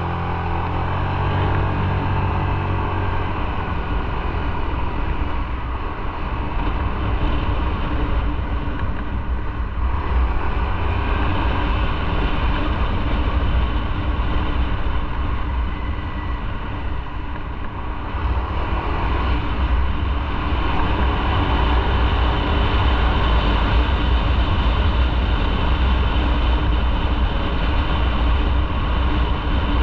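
Motorcycle on the move: the engine running under steady road and wind rumble. The engine's pitch is plain for the first few seconds, then sinks into the even rumble.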